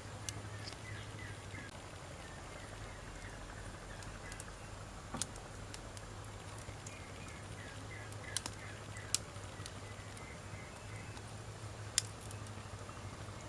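Wood fire burning with a steady low hiss and a few sharp pops from the burning logs. Faint short chirps come and go in the background.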